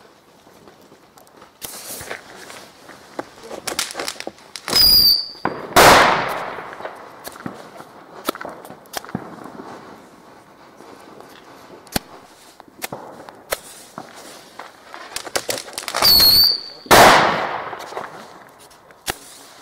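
Fireworks and firecrackers going off in scattered bangs. Twice, a short high whistle is followed about a second later by a much louder bang that dies away slowly.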